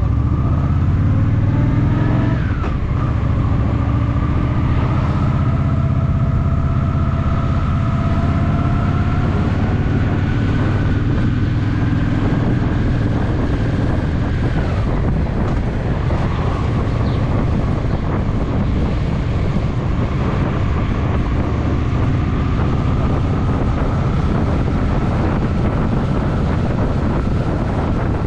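Honda Shadow VT750's V-twin engine running under way on the road. Its low, even engine note is clearest for the first couple of seconds, then turns rougher and noisier.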